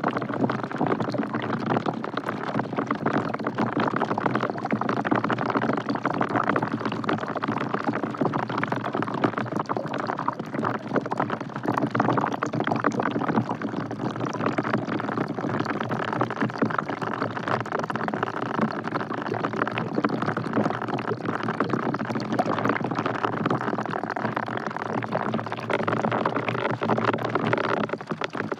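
Rain falling steadily into a bucket, many drops splashing at once.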